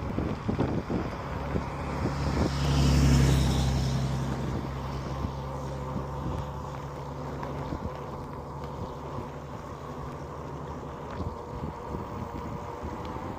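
A motor vehicle's engine passing by: its low hum swells to a peak about three seconds in, then fades away over the next several seconds. A few knocks come in the first two seconds.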